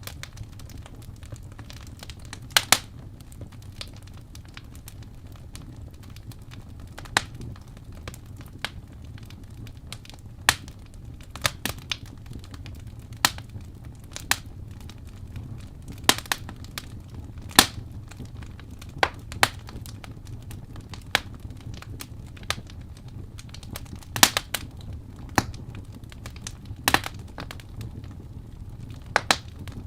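Wood fire burning in a fireplace: irregular sharp crackles and pops, roughly one to three a second, over a steady low rumble of the flames.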